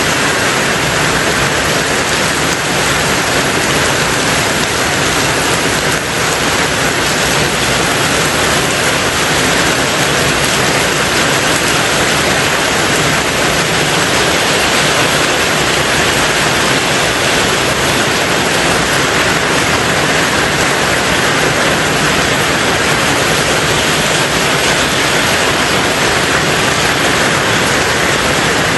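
Rain falling steadily on a tin roof: an even, unbroken hiss of drops with no single strikes standing out.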